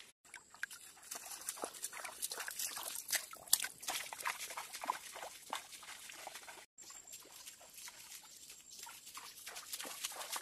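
A person chewing and crunching food with the mouth close, a rapid irregular crackle of short crunches and smacks. After a brief break about two-thirds of the way in, the crackling goes on with a faint high steady insect whine behind it.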